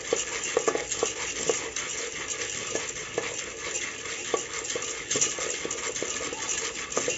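Popcorn kernels being stirred with a spoon in hot oil in an open pressure cooker, irregular scraping and clicking of spoon and kernels against the pot over a steady sizzling hiss. The kernels are heating up and not yet popping.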